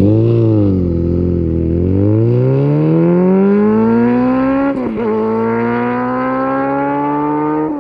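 Honda CB1000R inline-four engine through a Yoshimura R-77 exhaust, accelerating hard: a brief rev and dip, then the engine note climbs steadily, drops at an upshift about five seconds in, climbs again, and shifts once more near the end.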